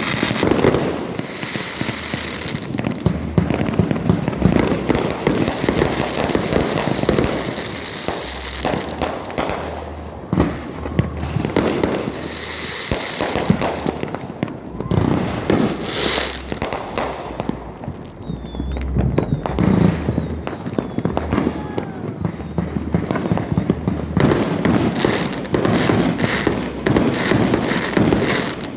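Continuous barrage of fireworks: many overlapping bangs and crackling, with a few faint whistles about two-thirds of the way through.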